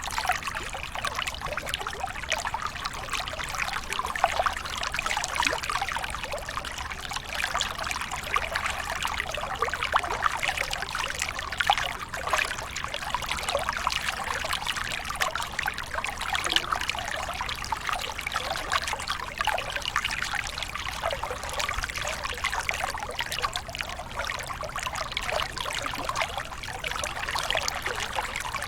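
Small waterfall with water pouring and splashing continuously. It makes a steady, dense trickling rush with constant small splashes and no pauses.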